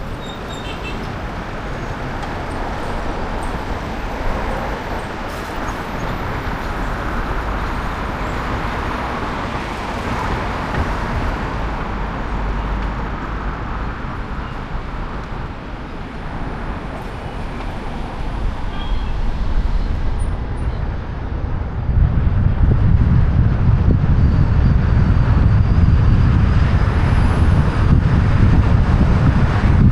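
Road traffic and tyre noise picked up by a microphone on the roof of a moving car. About two-thirds of the way in, a loud low wind rumble on the microphone takes over as the car picks up speed.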